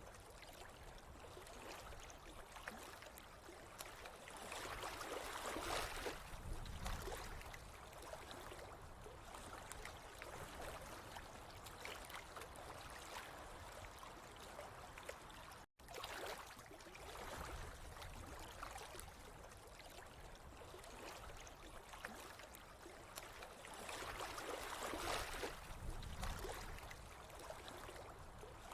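Flowing water trickling and gurgling in a faint, steady wash that swells louder twice. It cuts to silence for a moment a little past halfway.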